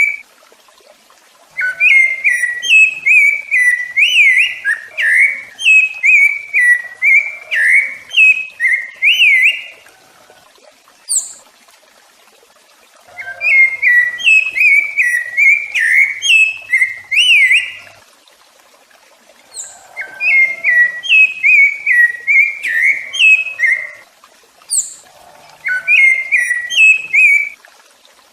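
Rufous-bellied thrush (sabiá-laranjeira) singing: several-second bouts of fluty, whistled phrases rising and falling in pitch, broken by short pauses, with a few thin high notes in the gaps.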